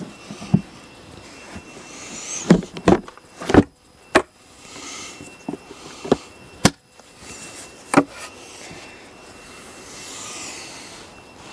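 Handling noises while an outboard motor's cowling is wiped down with WD-40 and a rag: a series of sharp, irregular knocks and bumps, with a few short hissing swishes in between.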